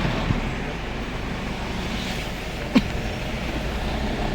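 Steady engine and road rumble of a moving vehicle, with a small click just after the start and a sharp knock nearly three seconds in.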